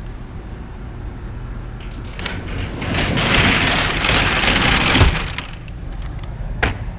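The rear door of a box truck's cargo body being pulled shut: a rattling, scraping noise that builds for about three seconds and ends in a single sharp bang, followed by a couple of lighter knocks near the end.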